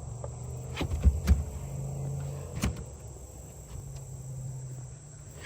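Cast net thrown from a boat: a few sharp knocks and clatters in the first three seconds, over a steady low hum.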